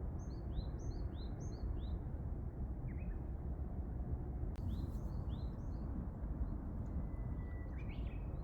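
A small songbird repeating a quick high two-note chirping phrase, in a run of four near the start and again about halfway through, with a shorter call near the end, over a steady low background rumble.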